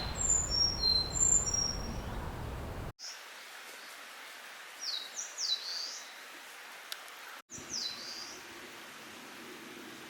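Leaf warbler song in high, thin whistles. In the first few seconds there is a quick run of short level notes at several pitches. After a cut come two short phrases of quick sliding notes from an Eastern crowned warbler singing, over a faint outdoor hiss.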